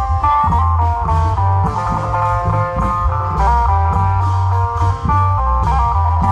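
Amplified Isan band music: a fast plucked-string lead melody over heavy, steady bass and regular drum beats.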